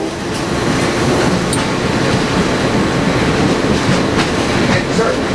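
Train running along the track, heard from aboard: a steady rumble and rattle of wheels on rail, with a few faint clicks.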